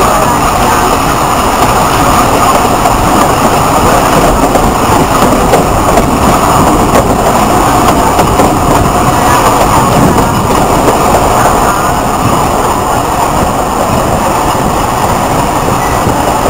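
Alishan Forest Railway train running on the mountain line: a loud, steady rumble of wheels on the rails, easing slightly about twelve seconds in.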